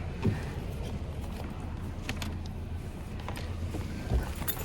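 A car engine idling, heard as a steady low hum, with a few light clicks and knocks over it.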